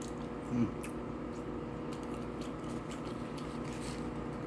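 A person chewing a McDonald's chicken nugget, with faint wet mouth clicks over a steady room hum. The eater makes a brief low vocal sound about half a second in.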